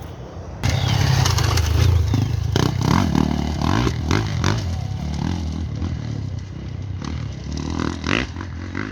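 Off-road race motorcycle engine running hard close by, starting abruptly under a second in and gradually fading away.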